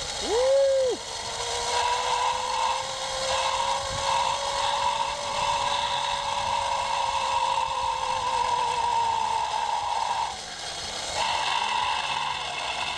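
Zipline trolley pulleys running along a steel cable: a steady whine that rises a little in pitch and then falls away. A brief separate whine sounds at the very start, and the whine drops out about ten seconds in, then comes back near the end.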